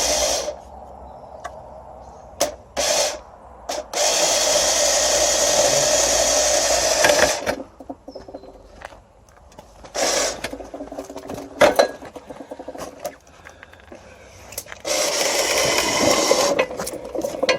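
A winch running in several bursts of steady whirring, the longest about three seconds, with short quiet gaps between, as it takes up the load.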